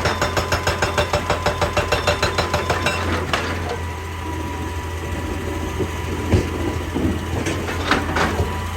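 Excavator-mounted hydraulic rock breaker hammering in rapid, evenly spaced blows, stopping about three seconds in. The diesel engine then runs on steadily, with a few single knocks near the end.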